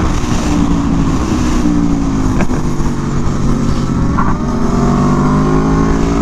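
Aprilia Tuono V4 1100 motorcycle's V4 engine running hard on track, its revs rising and falling with throttle and gear changes, over heavy wind rush.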